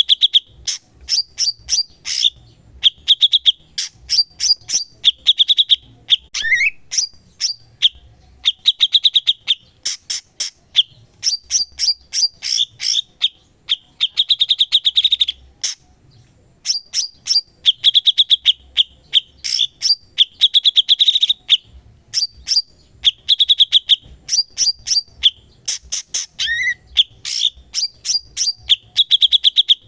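Cucak cungkok songbird singing continuously: fast runs of sharp, high repeated chirps alternating with rolling trilled phrases, broken by brief pauses.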